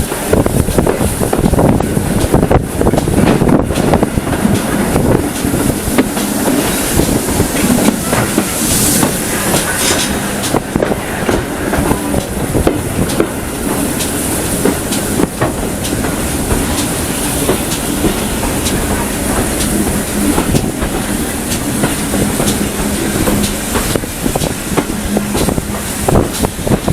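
A train running along the rails, with a steady run of clickety-clack over the rail joints above a continuous low hum.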